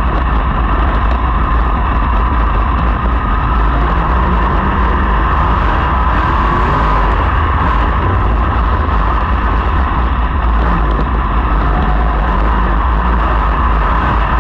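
Sprint car engines running together on a dirt oval, a loud steady din with faint rising and falling engine notes in it.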